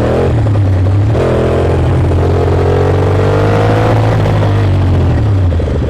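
Ducati Monster S2R's L-twin engine under way. Its note breaks about a second in, then rises steadily in pitch as the bike accelerates.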